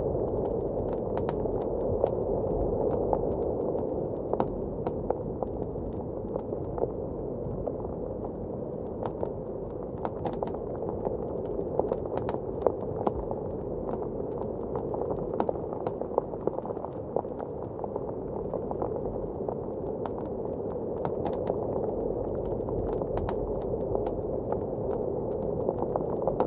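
Wood fire crackling, with irregular sharp snaps and pops, over a steady muffled rush of blizzard wind.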